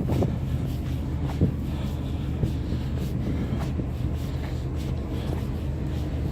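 Steady low engine drone with a few short knocks and rattles over it in the first second and a half.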